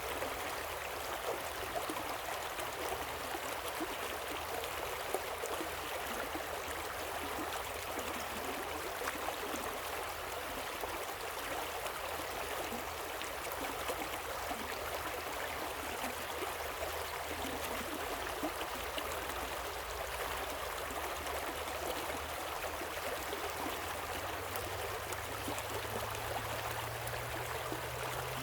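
Waterfall and river water rushing steadily, an even hiss and splash with no breaks. A faint low hum comes in about two-thirds of the way through and rises a little near the end.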